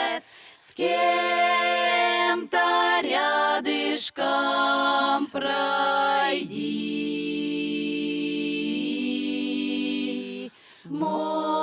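A vocal ensemble singing a slow Russian folk song a cappella, the words drawn out over long notes. Short breaks for breath fall about half a second in and near the end, with one long held note through the second half.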